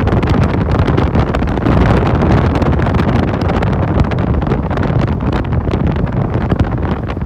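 Wind buffeting the microphone on a moving motorcycle taxi, a loud, steady rumbling rush with the motorcycle's running and road noise underneath.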